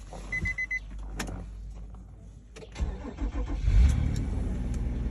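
Nissan Murano Z50's 3.5-litre V6 being started: after four short high beeps and a click, it cranks about three seconds in, catches with a brief rev and settles into a steady idle.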